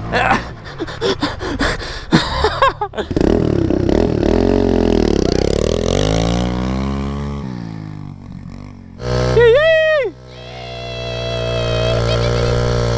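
Small single-cylinder mini bike engines running: for the first few seconds the sound is choppy and broken. Then an engine note swings down and back up in pitch as a bike goes by. About nine seconds in there is a quick sharp rev up and back down, followed by a steady engine note that grows louder.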